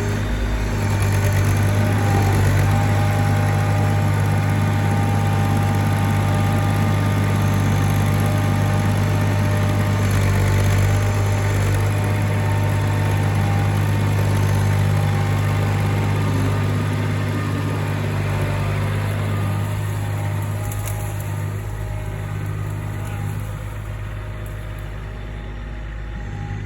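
A vehicle engine running steadily with a low hum. It gets louder about a second in and eases off over the last third.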